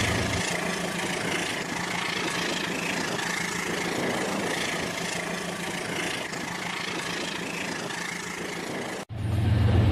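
Rail King toy train running on its track, a steady motor whir with light wheel clatter. It cuts off abruptly about nine seconds in and a deeper hum takes over.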